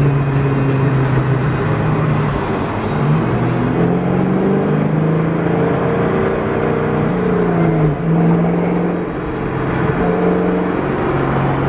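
Car engine running under load, its note rising and dropping several times as the engine speed changes.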